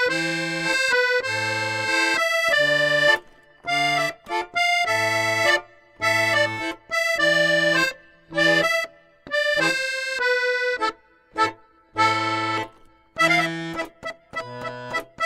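Accordion music: a tune in short, separate phrases, with bass notes and chords coming and going under it with the beat.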